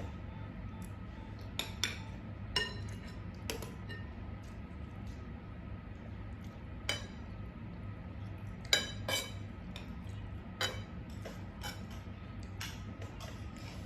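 Cutlery clinking against plates while people eat: irregular sharp clinks every second or so, some ringing briefly, over a steady low hum.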